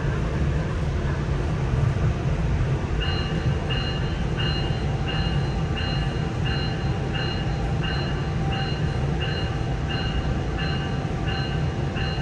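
Steady rumble of a Nippon Sharyo diesel multiple unit running, heard from inside the car. About three seconds in, a bell starts ringing evenly about twice a second and keeps on: the train's warning bell.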